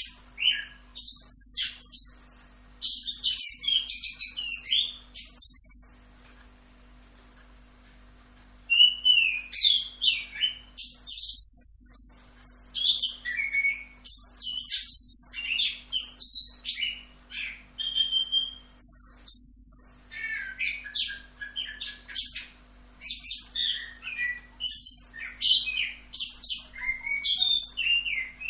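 Chestnut-capped thrush (anis kembang) singing a fast, varied run of high chirps and whistled phrases in a continuous rolling song. The song breaks off for about three seconds roughly six seconds in, then resumes.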